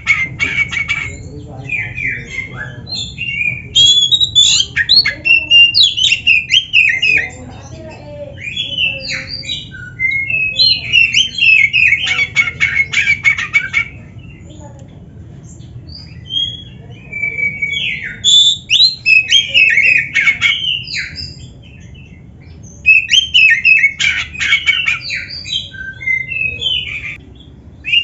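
Oriental magpie-robin (black-breasted kacer) singing in loud bursts of rapid whistled and harsh notes, with canary-like phrases mixed in and short pauses between bursts. A steady low hum runs underneath.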